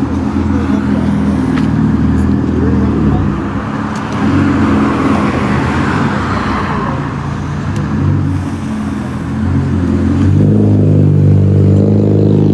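Street traffic: car engines running nearby, with one car going past about midway and a closer engine growing louder near the end.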